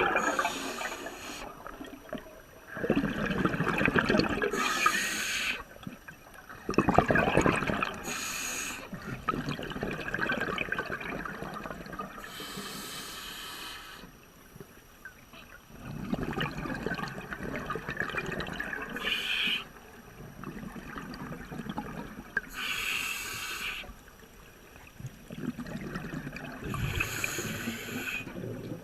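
Running and trickling water, like a stream or waterfall, its level and character jumping abruptly every few seconds.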